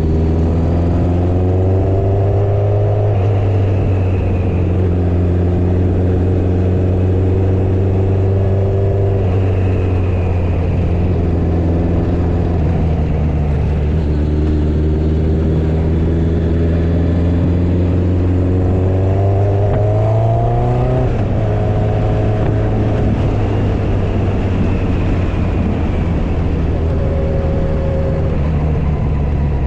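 Motorcycle engine running under way, its pitch climbing as it accelerates and dropping at gear changes about three seconds in and again about two-thirds of the way through, with steady wind and road noise beneath.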